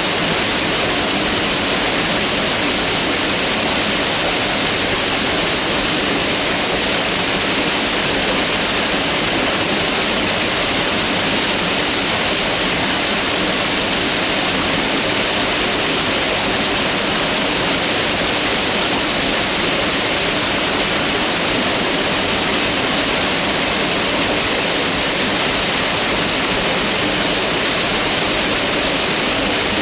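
Mountain river rushing, a steady full water noise with no breaks.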